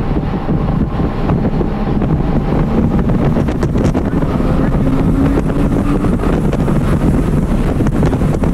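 Porsche Cayman R's flat-six engine heard from inside the cabin, accelerating hard with its note rising through third gear, then shifting up into fourth. Wind noise runs underneath.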